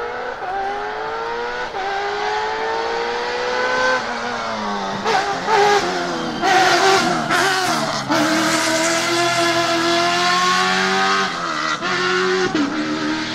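Ford Raptor T1+ rally truck's 5.0 V8 engine under hard driving. The pitch climbs and falls back twice in the first four seconds. Then come uneven revs with loud rough bursts of noise from about five to eight seconds in, and then the revs settle at a fairly steady level.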